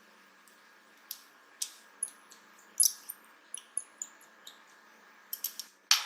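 Light, irregular clicks and ticks of small parts being handled while a Samsung Gear S3 smartwatch is put back together, with a quick run of clicks and a louder clack near the end.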